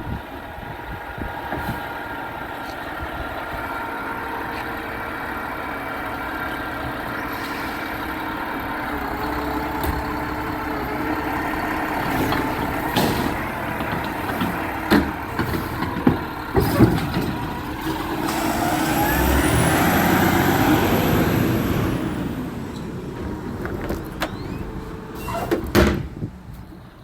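Garbage truck engine running steadily, with several sharp clanks in the middle. Then the engine revs up in a rising whine for a few seconds before it settles back.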